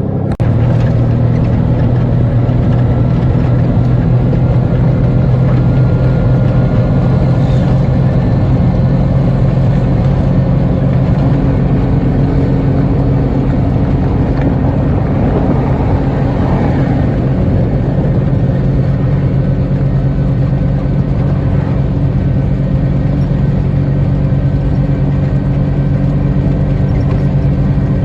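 Motor vehicle engine droning steadily with road noise, heard while driving.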